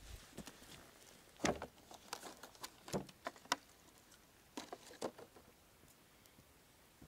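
A scatter of irregular sharp clicks and knocks, the loudest about a second and a half in and again around three seconds in, with a few more near the five-second mark.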